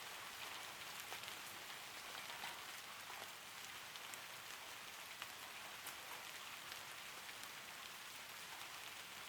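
Steady gentle rain: an even hiss with scattered taps of individual drops.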